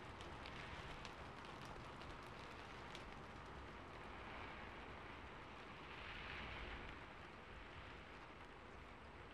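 Faint recorded ambience of rain falling on a rooftop: a steady hiss with scattered drop ticks, swelling slightly about six seconds in.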